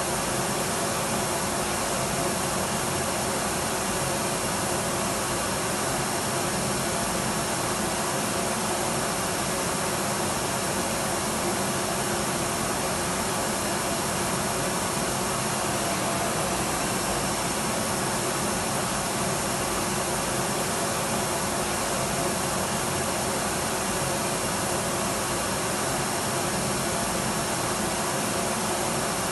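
Electric vacuum cleaner running steadily: an even rushing noise with faint steady tones in it.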